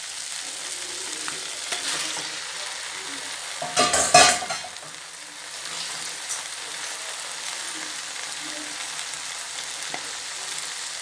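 Onion-spice masala paste frying in oil in a metal kadai, cooked until the oil separates, with a steady sizzling hiss. About four seconds in, raw chicken pieces go into the hot pan with a loud, sudden burst of sizzle, and then the steady frying settles back.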